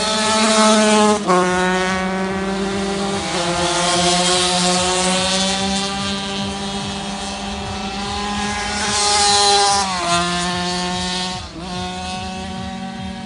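Supermoto motorcycle engines racing on a track, revving hard, with the pitch dropping sharply at gear changes about a second in, near ten seconds and again shortly after, then climbing again. Loudest about a second in and again around nine seconds.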